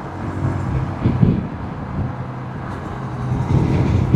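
Motorcycle engine running with wind and road noise, heard from inside the rider's helmet; the engine note swells up and down briefly about a second in and again near the end.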